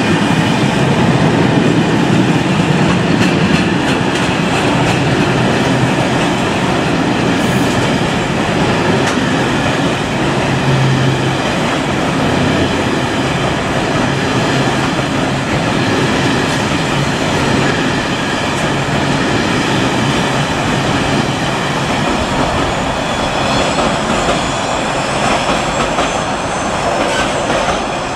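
Freight train of hopper wagons rolling past at speed: a steady rumble and clatter of steel wheels on rail, with a thin high ringing above it. It eases slightly near the end as the last wagon passes and draws away.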